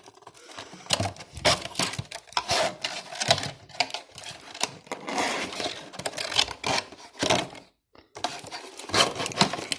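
Cut plastic bottles and wooden sticks being handled and pressed together, making irregular clicks, taps and plastic crackles. The sound cuts out completely for a moment about eight seconds in.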